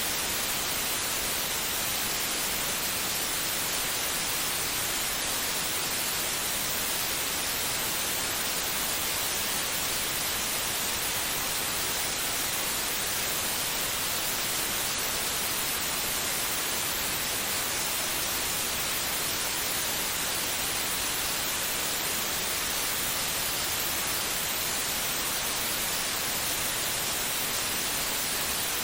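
White noise played for soothing a baby to sleep: a steady, even hiss with no beats or changes.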